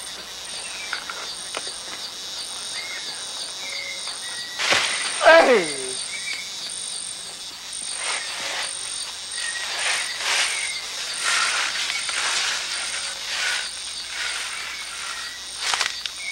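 Amazon rainforest insect chorus, a steady high drone with a pulsing high trill, with short bird chirps. About five seconds in comes a loud cry that falls in pitch, and from about eight seconds on a series of short crackling, rustling noises.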